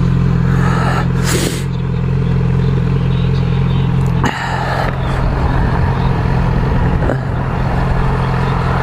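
Motorcycle engine idling steadily at constant revs, with two short bursts of noise about a second and a half and four seconds in.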